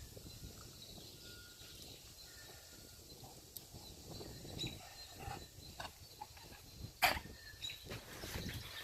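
Puppies moving about and scuffling, with scattered small clicks and rustling and one louder sharp knock about seven seconds in.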